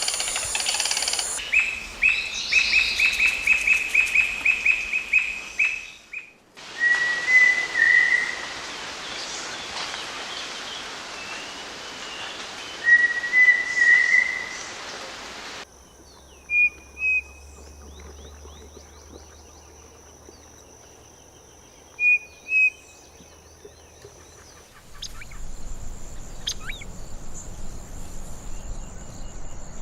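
Calls of several different bird species in turn: a fast run of repeated notes, then two short whistled phrases several seconds apart, then two pairs of short high calls. Near the end a steady high trill sets in.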